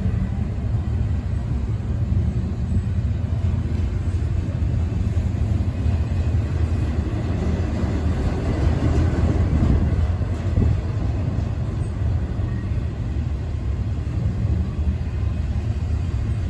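Intermodal freight train's container cars rolling past, a steady low rumble of steel wheels on rail that swells slightly about halfway through.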